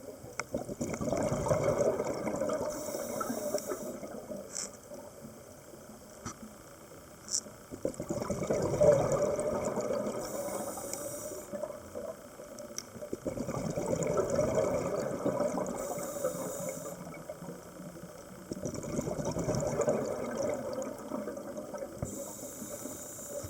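Scuba diver breathing through a regulator, heard underwater: a short hiss of inhalation, then a few seconds of bubbling exhaust bubbles, repeating about every six to seven seconds, four breaths in all.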